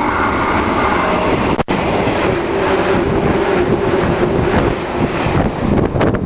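A 485-series electric limited express train passing at speed close by: a loud, steady rush of wheels on rail and air, easing off near the end as the train clears.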